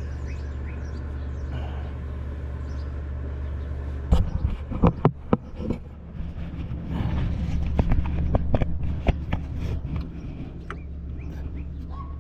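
A steady low machine hum, with a few sharp knocks about four to six seconds in, followed by some clatter.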